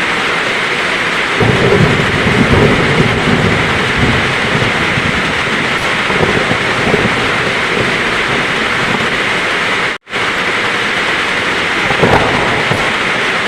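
Heavy rain falling steadily, with thunder rumbling low a little over a second in and again near the end. The whole sound cuts out abruptly for an instant about ten seconds in.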